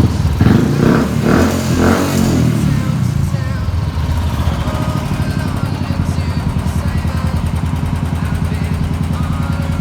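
Royal Enfield single-cylinder motorcycle engine running, with its exhaust pulsing evenly. It is louder and busier in the first two seconds, as if blipped, then settles to a steady idle.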